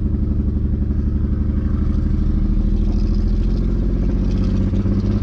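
Big single-turbo BMW 335i's inline-six engine running under way, steady and uneven, with a slight change in pitch about three and a half seconds in. The engine is breaking up with a slight misfire, which the men put down to a faulty ignition coil.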